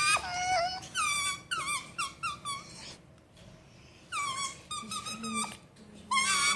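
Pit bull puppy whining in a string of short, high-pitched calls, each falling in pitch, with a pause of about a second midway.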